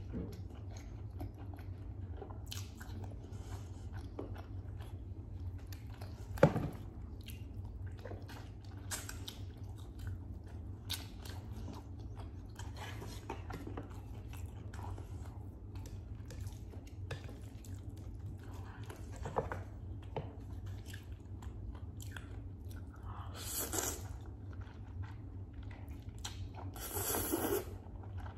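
Close-miked chewing and biting of a meal of roast chicken, vegetables and instant noodles, with many wet mouth clicks. There is a sharp knock about six seconds in, and two longer, louder stretches of eating noise near the end.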